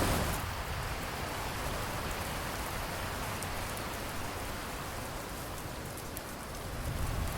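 Steady rain falling on a surface, heavier for the first half second and then settling to an even downpour.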